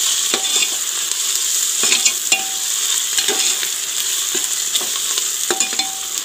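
Sliced onions, garlic and ginger sizzling in hot oil in an aluminium pressure cooker, stirred with a metal ladle that scrapes and knocks against the pot's side every second or so.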